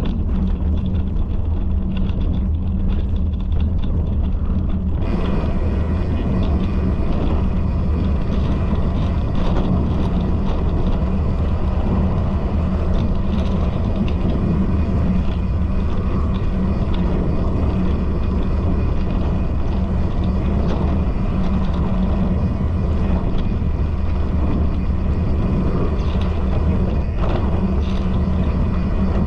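Steady low rumble with constant rattling, as of a bicycle rolling over a rough trail.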